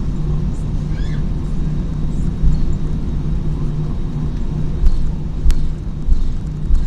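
Airliner cabin noise on the ground before take-off: the jet's engines give a steady low rumble and hum, with a few low thumps.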